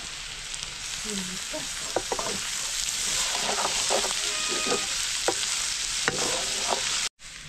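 Food sizzling in a hot pan while it is stirred, with a steady frying hiss and several sharp clicks of a utensil against the pan. The sound cuts off abruptly near the end.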